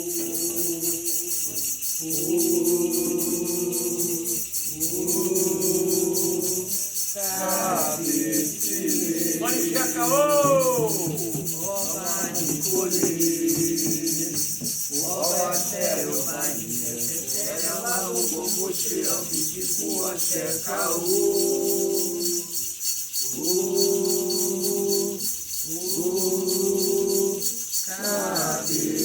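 Voices singing a Candomblé chant for Xangô in phrases of a few seconds with short breaks, over a rattle shaken in a fast, even rhythm throughout.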